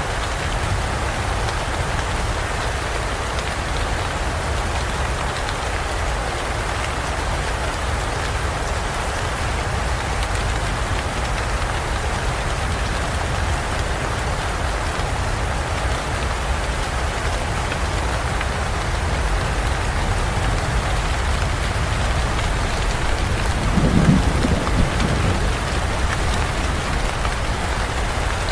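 Steady rain falling in a forest, with a low rumble of thunder about 24 seconds in.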